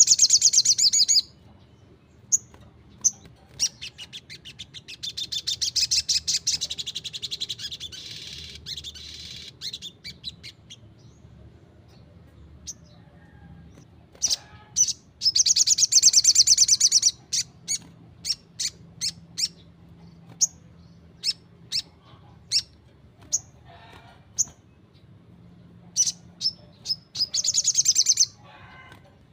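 Little spiderhunter (sogok ontong) singing: single sharp high chips broken by fast rattling trills of repeated notes. One trill comes at the start, a longer one fades away between about four and ten seconds in, and more come about halfway through and near the end.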